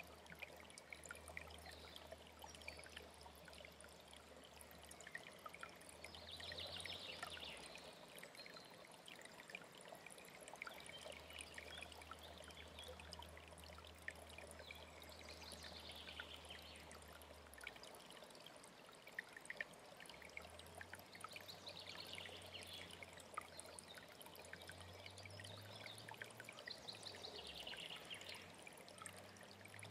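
Faint alpine stream running steadily, with short bursts of birdsong coming in every few seconds.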